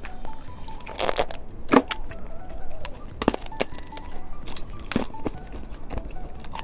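A few sharp crunches as a hamburger-shaped candy is bitten and chewed, spaced about a second or more apart, with soft background music.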